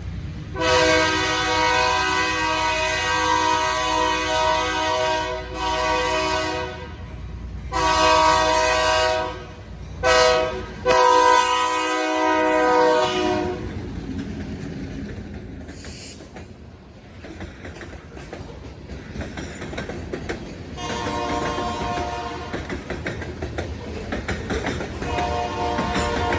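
Diesel locomotive air horn sounding a series of chord blasts: a long blast, a short one, another long one, a very brief toot and a final long blast. The blasts are followed by locomotive rumble and rail clatter, with two fainter horn blasts near the end.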